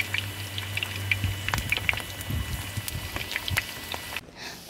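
Eggplant slices frying in oil in a pan, a steady sizzle with scattered small crackles and pops over a low steady hum. The sound drops away near the end.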